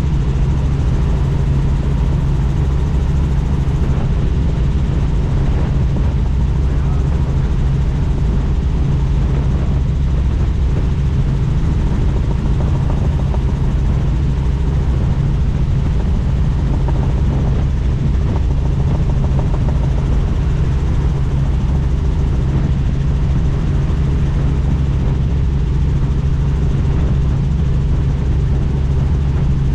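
Helicopter in flight: a loud, steady drone of rotor and engine with a low hum that holds unchanged.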